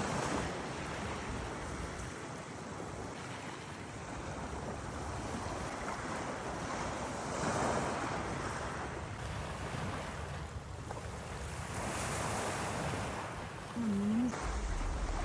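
Sea waves washing in and drawing back, swelling every few seconds, with wind rumbling on the microphone.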